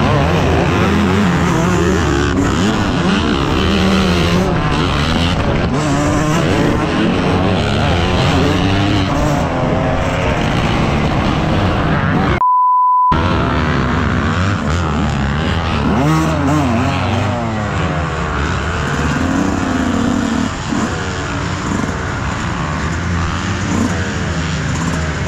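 Several motocross bike engines revving together, their pitches rising and falling and overlapping as a pack races. A short, steady, single-pitched beep cuts in about halfway through.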